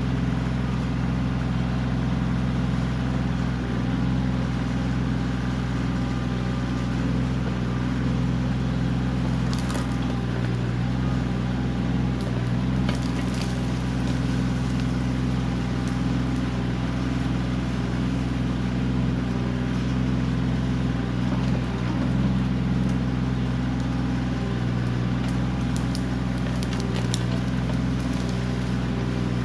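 Kioti CK20S compact tractor's diesel engine running at a steady speed while working a backhoe, with a few short sharp clicks around the middle and near the end.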